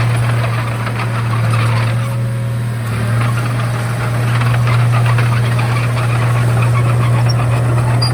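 Komatsu D31A bulldozer's diesel engine running steadily with a deep hum, with a constant rattling and crackling over it.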